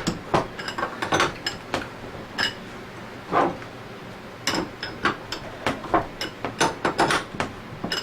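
Irregular sharp metallic clicks and clinks from the threaded screw of a bearing-pulling fixture being worked hard, a little at a time, to pull two bearings at once out of an Anest Iwata scroll pump. There is a short lull about halfway through.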